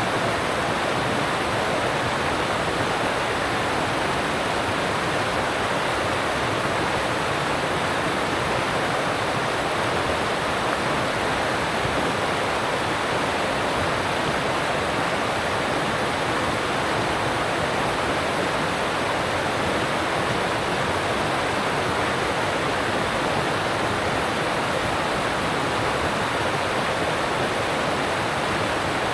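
Alpine mountain stream rushing over rocks, a steady, unbroken wash of water noise.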